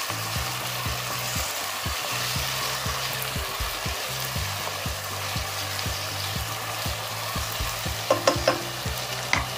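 Onions, green chillies and ginger-garlic paste sizzling in hot oil in a ceramic-coated kadai while being stirred with a wooden spatula. A few sharp clicks come near the end.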